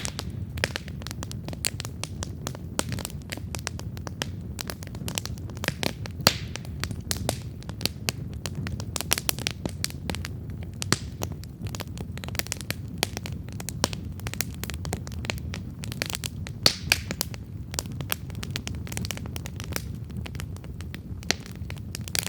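Wood campfire crackling: dense, irregular snaps and pops of burning wood over a steady low rumble of flame, with a few louder pops.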